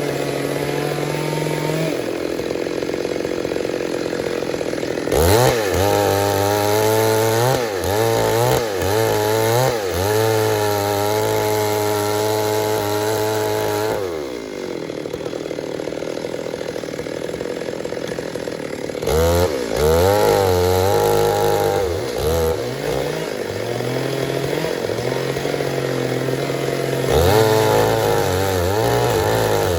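Stihl MS 382 two-stroke chainsaw revved to high speed in three long spells, its pitch wavering within each. Between the spells it runs slower and steadier.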